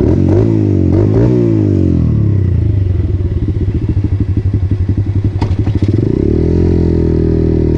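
125cc motorcycle engine running under throttle while riding. The engine note climbs and then drops in the first two seconds, holds steady at a lower pitch, then rises again about six seconds in and holds there.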